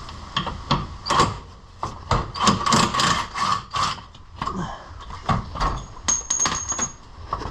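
Ratchet wrench being worked on the radiator support and cross member bolts: a run of irregular metallic clicks and knocks, several a second, with a thin high tone for about a second near the end.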